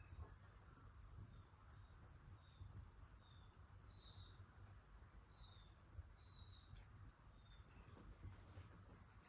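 Near silence: faint outdoor ambience with soft, short high chirps repeating every second or so.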